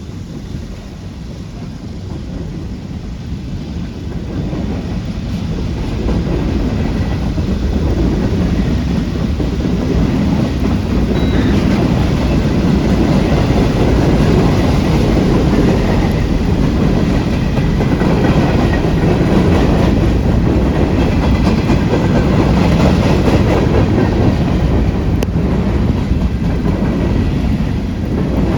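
Freight train rolling past on the track, its cars' wheels rumbling and clattering on the rails. It grows louder over the first several seconds, then holds steady.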